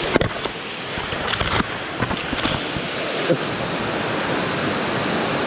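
Waterfall's falling water, a loud steady rush, with wind and spray buffeting the microphone. A few sharp knocks in the first three seconds or so.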